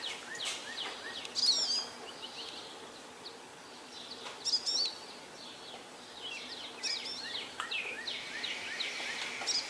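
Several songbirds chirping and singing in quick, high repeated notes, over a faint steady background hum. The loudest phrases come about a second and a half in and again around four and a half seconds.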